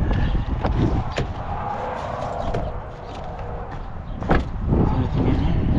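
Wind buffeting the microphone, with a few light knocks and a loud bang a little over four seconds in.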